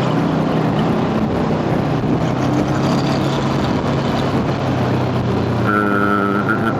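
Motor scooter engine running at a steady road speed, a low hum under the rush of wind noise. A steady higher pitched tone joins near the end.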